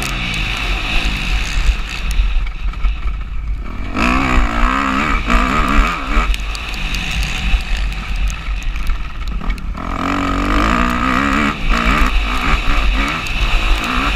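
Motocross bike engine heard from onboard, revving hard and easing off as the throttle opens and closes, with two clear lulls where it drops off before pulling up again. A low wind rumble on the microphone runs underneath.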